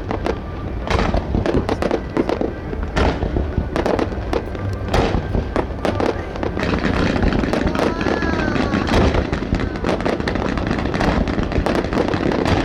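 Fireworks display: shells bursting one after another, about one bang a second, over a continuous din of crackling and rumble.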